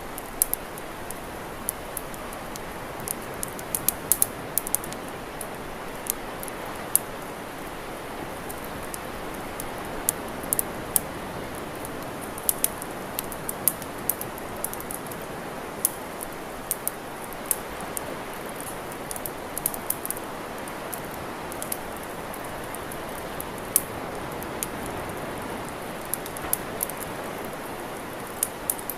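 Wood campfire crackling, with sharp irregular pops and snaps scattered over a steady hiss.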